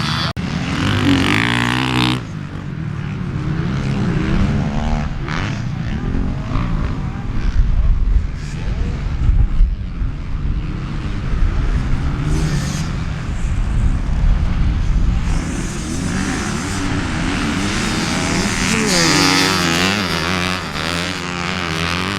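Motocross dirt bike engine revving up and down while riding, with wind buffeting the microphone.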